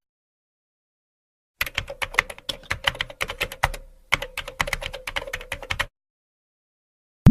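Typing on a keyboard: rapid, irregular key clicks starting about a second and a half in, with a short break about four seconds in, stopping near the six-second mark.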